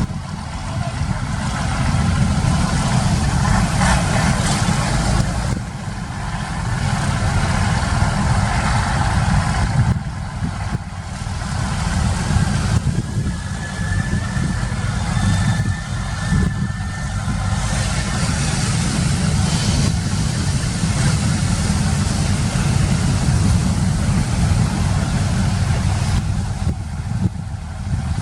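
A fishing boat's engine running steadily under a rushing wash of sea and wind noise that swells and eases every few seconds.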